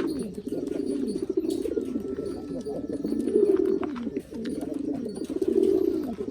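Several domestic pigeons cooing at once, continuous overlapping low coos that each fall in pitch at the end.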